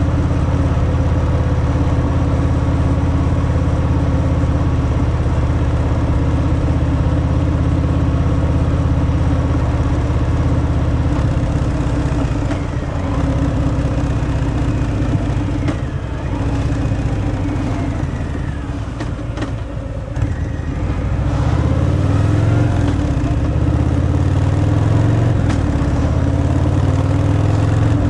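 Harley-Davidson Fat Boy's V-twin engine through its stock exhaust, running steadily at cruising speed. In the second half the rider eases off and picks up again, so the engine's pitch falls and rises several times.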